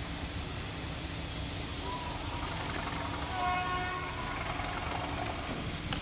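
Steady low rumble of a railway locomotive, with one short toot from the train about three and a half seconds in.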